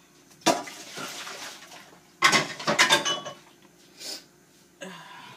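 A metal cooking pot knocking and clanking as the chicken-boiling broth is tipped out: a sharp knock, then a rush of noise, then a cluster of ringing metallic clanks about two seconds in and a couple of lighter knocks near the end.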